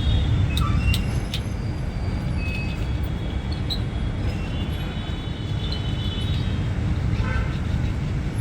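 Steady low rumble of road traffic passing close by, with a few sharp clicks in the first second and a half and faint thin high tones over the top.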